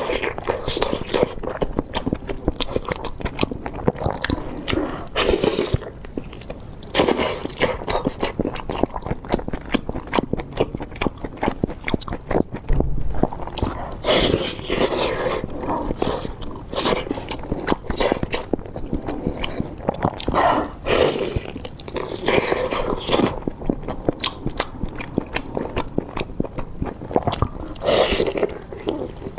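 Close-miked eating sounds: biting into and chewing a large sauce-coated blood sausage, a dense run of uneven wet smacks and clicks.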